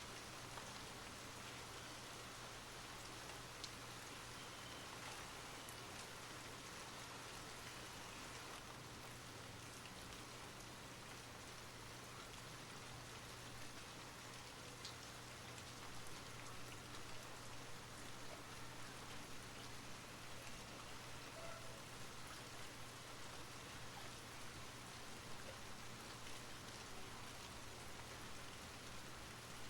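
Steady rainfall, an even hiss of drops with a few sharper individual drop ticks.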